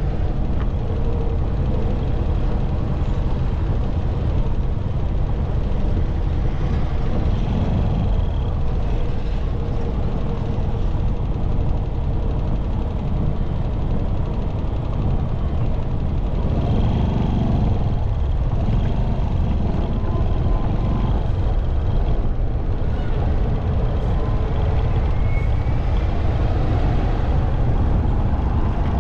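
Motorcycle running at a steady riding speed, a loud, even low rumble of engine and road noise.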